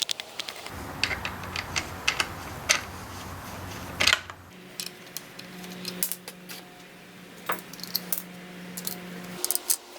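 Small metal tools and parts clinking and tapping in quick irregular clicks, over a low steady hum.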